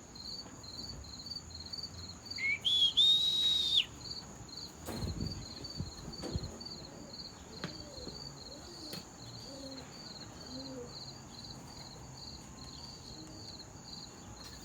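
A single loud whistle, rising then held for about a second, used to call tippler pigeons down to the loft. Crickets chirp steadily underneath, and there is a low thump a little later.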